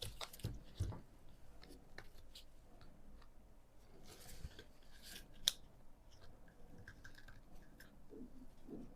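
Small plastic parts of a mini fan being handled and fitted together: scattered light clicks and taps, with a few knocks in the first second and one sharp click about five and a half seconds in.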